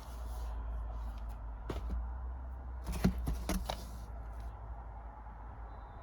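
Blu-ray and DVD cases being handled: a few short plastic clicks and rustles, with a quick cluster of them about three seconds in, over a steady low hum.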